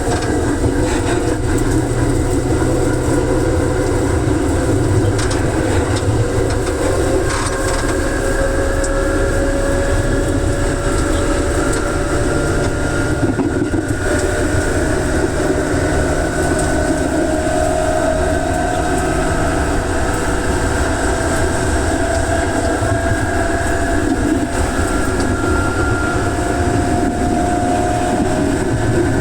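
Electric commuter train running, heard from inside the car: traction motors whining with a pitch that rises slowly as the train gains speed, over a steady rumble of wheels on rails.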